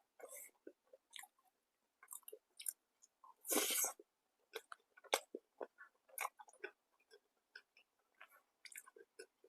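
A person chewing food close to the microphone, with irregular wet clicks and small crunches and one louder, longer burst about three and a half seconds in.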